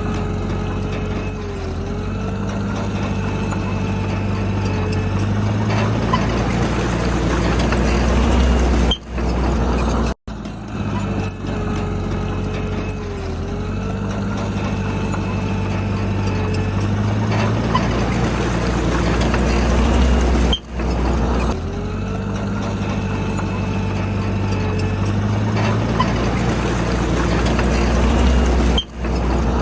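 Heavy diesel engine of earthmoving machinery running steadily under load, with brief sudden dropouts a few times.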